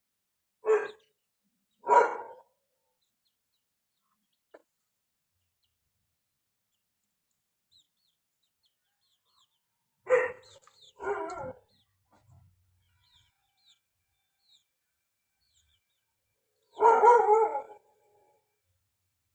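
Short, loud animal calls in three groups: two near the start, two about ten seconds in, and a longer one near the end. Faint high chirps come in between.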